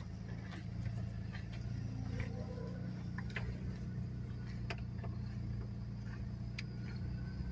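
A steady low mechanical hum with scattered faint clicks and ticks over it.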